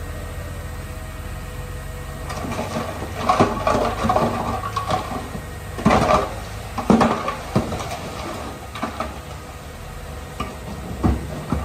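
Heavy earthmoving machinery: a diesel engine running low and steady, with a run of loud, irregular metal clanks and bangs from a couple of seconds in to about two-thirds through, and a few more near the end.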